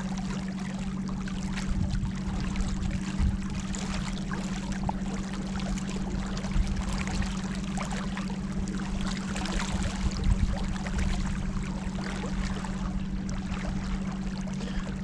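Water splashing and trickling along the hull of a small boat on the move, over a steady low hum.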